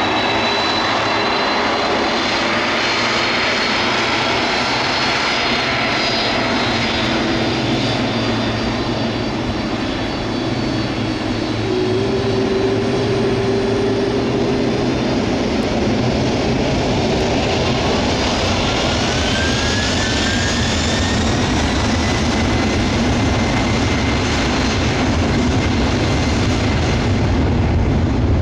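Boeing 747-400F four-engine freighter on its takeoff, jet engines at full power: a loud, steady jet noise with whining engine tones that slide in pitch and a deep rumble that grows towards the end.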